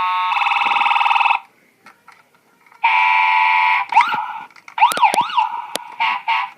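Toy ambulance's electronic siren playing: a fast warbling siren that stops about a second and a half in and starts again about three seconds in. It turns into rising and falling wails, with a few sharp clicks in between.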